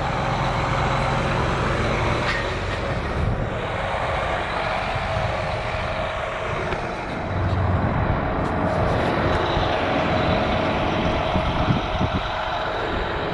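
Diesel engine of a large farm vehicle running steadily under light load while manoeuvring equipment.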